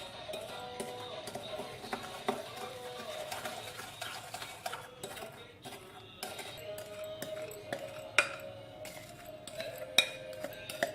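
A spoon scraping and clinking against a bowl while stirring, with a few sharp clinks, the loudest about 8 and 10 seconds in, over background music.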